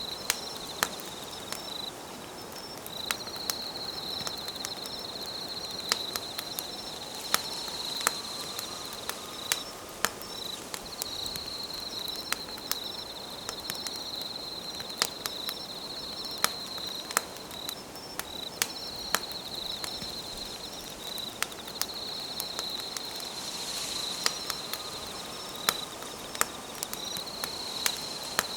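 Wood campfire crackling with sharp, irregular pops, over a steady high-pitched insect trill that breaks off briefly every few seconds.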